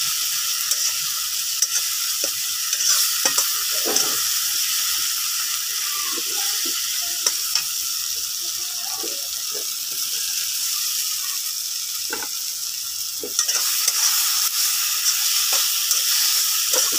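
Onion and spice masala sizzling in oil in a wok, with a metal slotted spatula scraping and stirring it in short, scattered strokes. About thirteen seconds in the sizzle gets louder as the small tangra fish go into the hot masala.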